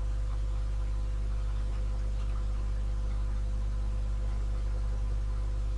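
Steady low hum with a faint steady tone above it, unchanging.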